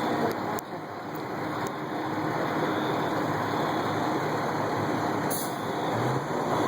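Steady rumble of road traffic, with a low vehicle engine drone coming in near the end.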